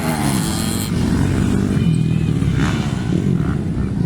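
Motocross dirt bikes' engines running hard, revving with a pitch that rises and falls as they race.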